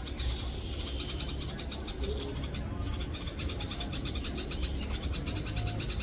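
Jungle babblers calling with a rapid, harsh chatter, over a low steady rumble.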